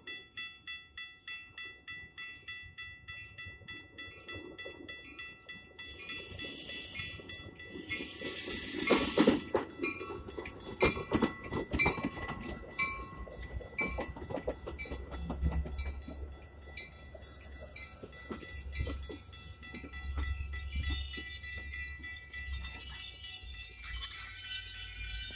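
Grade-crossing warning bell dinging rapidly while a Metra bilevel commuter train pulls out and passes. About eight seconds in there is a loud hiss, then wheels clicking over the rail joints, a low rumble that grows, and a high squeal from the wheels near the end.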